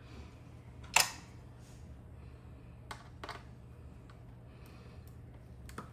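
Handling noise: one sharp click about a second in, then a few fainter clicks and taps, over a low steady hum.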